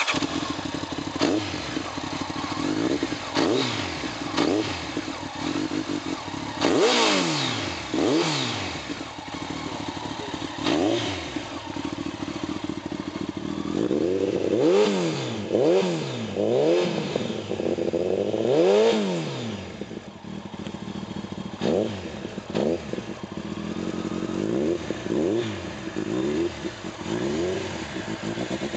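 Motorcycle engine idling through its exhaust, with repeated throttle blips that rise and fall in pitch. Several quick revs come in a row about halfway through.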